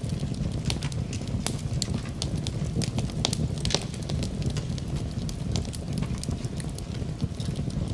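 Wood fire burning in a fireplace, crackling and popping irregularly with many sharp snaps, over a steady low rumble.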